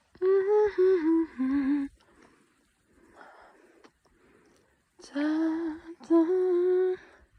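A woman humming a short tune in two phrases of held notes, the first stepping down in pitch.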